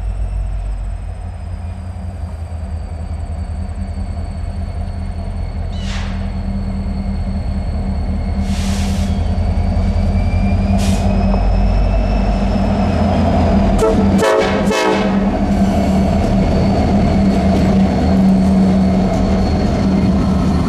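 Diesel freight train led by EMD SD70M-2 locomotives approaching, engines running with a steady low rumble that grows steadily louder. A brief rattle of rapid clicks comes about two-thirds of the way through.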